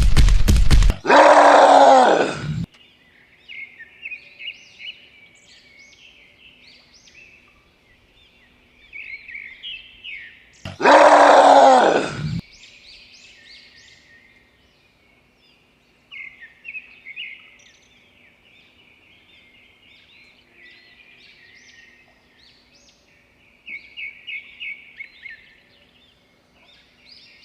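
Small birds chirping throughout, broken by two loud drawn-out animal calls each under two seconds long, about ten seconds apart. A loud rapid rattle cuts off about a second in.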